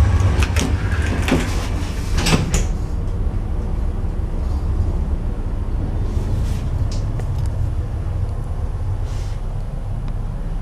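Lift at a metro station: clicks and knocks of the sliding doors in the first few seconds, then the car running with a steady low rumble, with a few more clicks about six seconds in.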